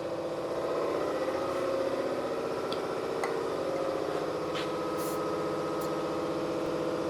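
Shop air compressor running steadily: a constant motor hum with a fast, even pulse.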